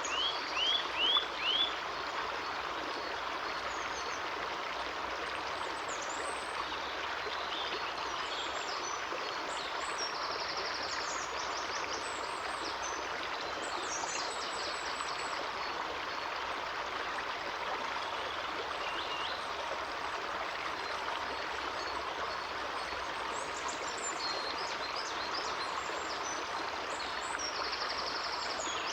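Steady rush of a flowing stream. Birds call over it: a quick run of four rising chirps in the first couple of seconds, then scattered thin high calls.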